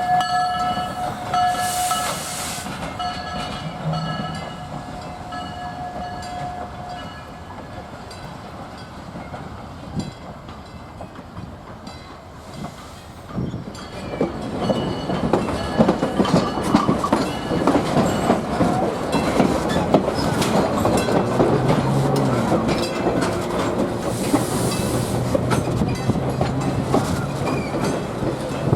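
Railway car rolling on the track behind a steam locomotive: wheels clattering over the rail joints, quieter at first and growing much louder and denser from about halfway through. A steady high tone fades out over the first several seconds.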